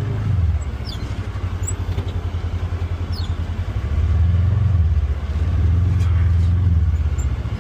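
Polaris Xpedition UTV engine running, with a fast even pulsing under a low rumble, swelling louder twice as throttle is applied, about four and six seconds in.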